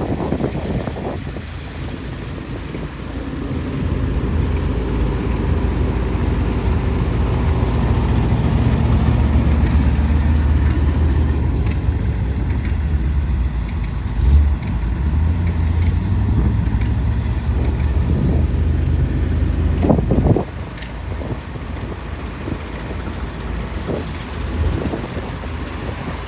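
Mercury 500 truck's engine running steadily, growing louder over the first several seconds and dropping back about twenty seconds in, with one short knock partway through.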